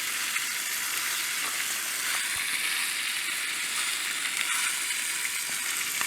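A Cornish game hen sizzling steadily in a hot cast iron skillet over a campfire, a crackling hiss with small pops.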